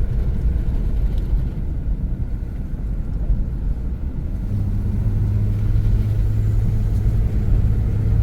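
Car driving, heard from inside the cabin: steady low road and engine rumble, with a steady engine hum coming in about halfway through.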